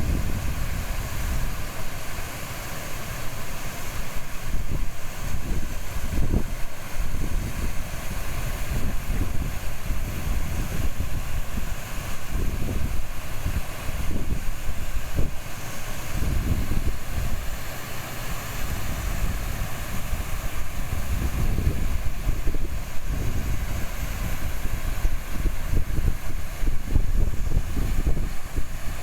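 River babbling steadily over stones, with gusts of wind buffeting the microphone as an uneven low rumble.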